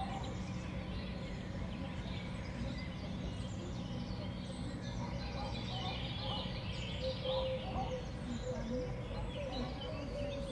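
Small songbirds chirping, with many short overlapping calls over a steady low background noise.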